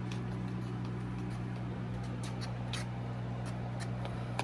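Steady low electrical-sounding hum with scattered light clicks and taps, like a utensil knocking against a bowl while batter is mixed.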